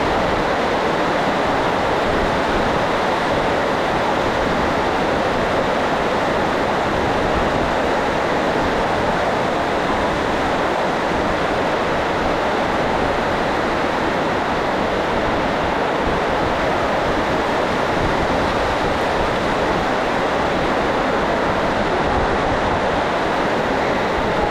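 Very loud heavy rain, a steady, unbroken hiss of downpour.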